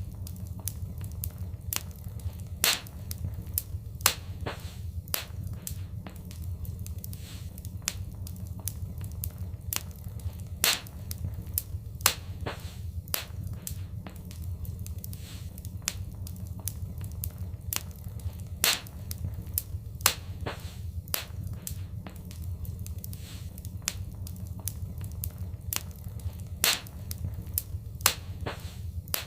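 Wood fire crackling in a fireplace: a steady low rumble under frequent sharp pops and snaps. The louder pops come back in the same pattern about every eight seconds, as in a looped recording.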